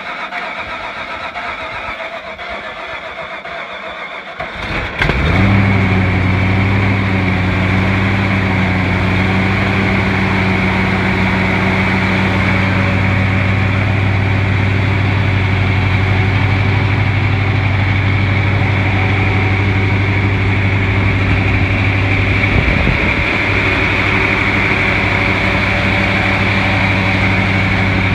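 Natural-gas-fuelled GM 350 small-block V8 being cranked by its starter for about four and a half seconds, then catching and settling into a steady, even run.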